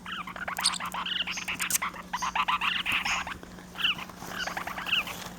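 Small pet parrots, baby lineolated parakeets and parrotlets, chirping: many short, quick falling chirps over a scatter of light clicks and taps.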